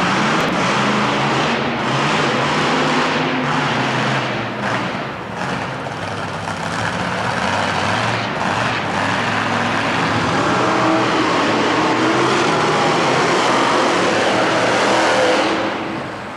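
Monster truck engines running loud and hard, with some revving, then dropping off sharply near the end.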